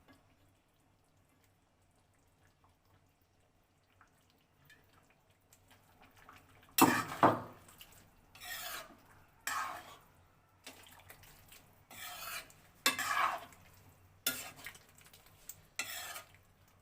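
Cooking spoon stirring and scraping chilli chicken gravy around a pan, in about seven short strokes that begin about seven seconds in, the first the loudest.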